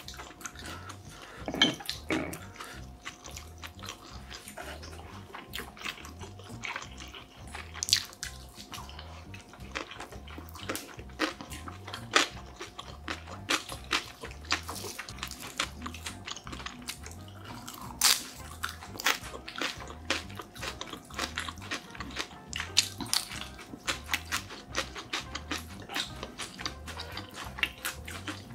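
Close-miked chewing of soft, sticky food: a steady run of quick wet mouth clicks and smacks, with a few louder smacks now and then.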